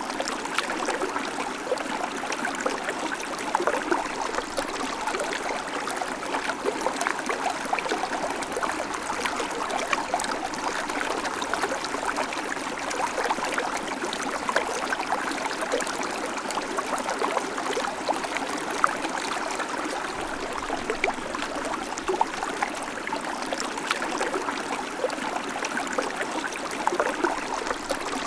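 Babbling creek: shallow water running and trickling over stones, a steady bubbling splash full of small, quick droplet sounds.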